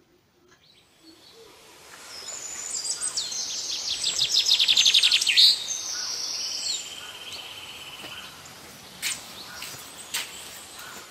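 Birds singing and chirping, fading in over the first two seconds, with a fast trill that is loudest about five seconds in and then a steadier, lower call. A couple of sharp taps near the end.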